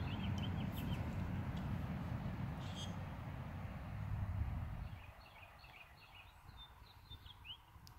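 Small birds chirping in short, high calls, a few near the start and a quick run of them about six to seven seconds in, over a low rumble that stops abruptly about five seconds in.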